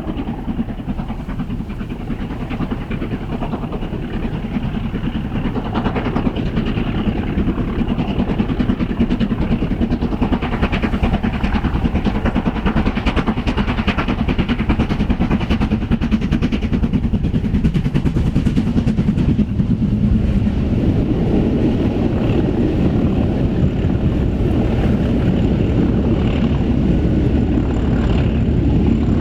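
Steam-hauled passenger train running by, a steady, loud rolling noise of the train with no clear breaks, growing fuller and louder over the last third.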